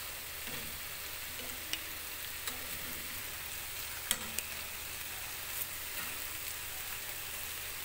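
Chicken wings frying in a non-stick pan in their own yogurt-and-lemon marinade liquid, a steady sizzle with a few light clicks.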